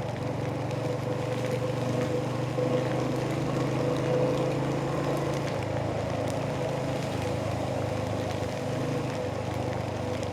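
Royal Enfield Hunter 350's single-cylinder engine and exhaust running steadily while the motorcycle cruises, a little louder a few seconds in.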